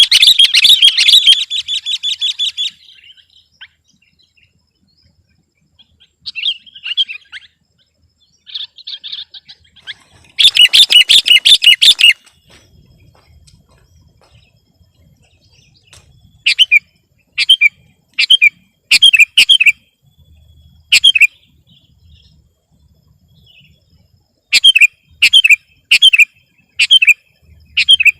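Sooty-headed bulbul singing. Rapid bursts of song come in the first couple of seconds and again around ten seconds in, with short phrases between them. From about sixteen seconds on it gives a string of short, sharp single notes, roughly one a second.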